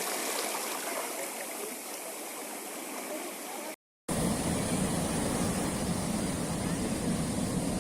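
Waves washing over a rocky shore, a steady rushing hiss. Just before halfway it cuts out completely for a split second, then comes back with a heavier low rumble underneath.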